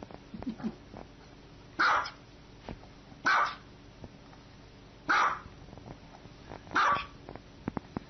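Small white dog barking: four sharp, high barks about a second and a half apart, with a faint low grumble just before the first.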